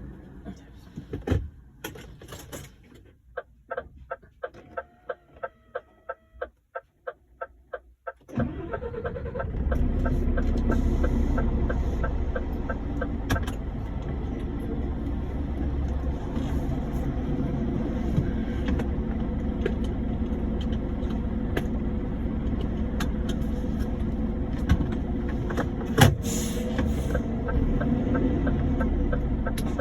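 A rapid run of short, evenly spaced ticks, then the truck's diesel engine starts about eight seconds in and settles into a steady run, with a regular ticking continuing over it.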